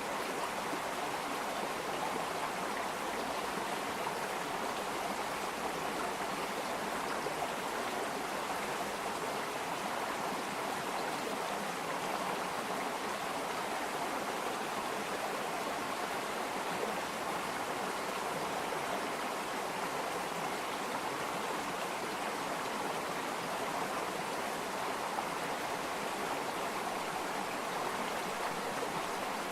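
Flowing water of a stream, a steady, even rushing and burbling.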